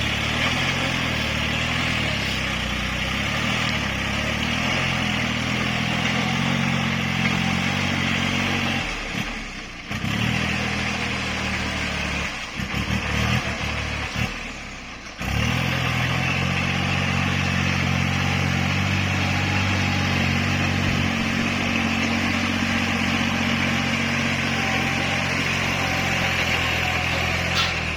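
Kubota tractor's diesel engine running steadily while tilling, with a hiss of higher noise over its low hum; the sound drops away briefly twice, about a third of the way in and again near the halfway point.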